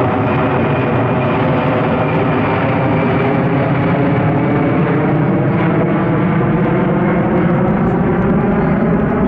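Aircraft engine drone at an air display, loud and steady, made of a stack of many pitched tones, swelling slightly after the middle.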